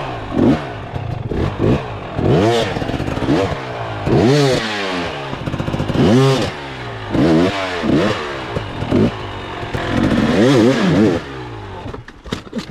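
Dirt bike engine revved in repeated bursts, the note climbing and falling about once a second, with some clatter; the engine drops away near the end.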